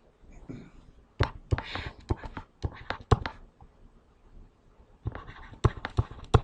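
Writing and tapping sounds: irregular sharp taps and clicks with some scratching, coming in runs, with a quieter stretch a little past the middle.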